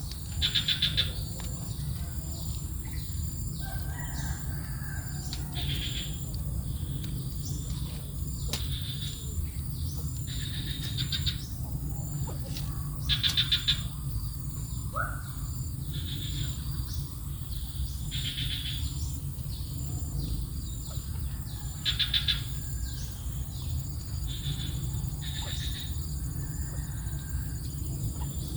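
Small birds chirping, short high calls repeated every second or two, a few of them louder stuttering trills, over a steady low rumble.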